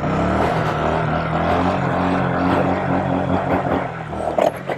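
Mini bike engine running at fairly steady revs, wavering slightly and easing off near the end, with wind noise on the microphone.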